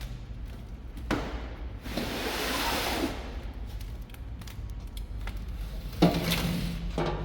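Metal clanks and knocks of press tooling and shelving being handled over a steady low hum: a knock about a second in, a rushing hiss for about a second, and a sharp metallic clank with a brief ring about six seconds in.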